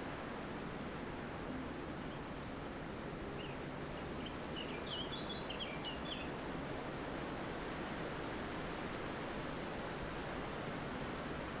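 Steady wind through forest trees, with a small bird twittering faintly for a few seconds, starting about three seconds in.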